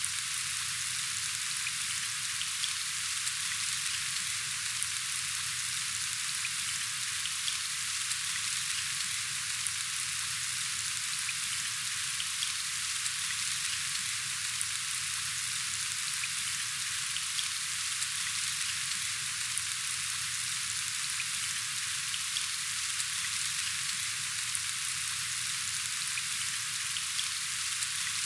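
Steady rain falling: an even hiss with scattered small ticks of individual drops.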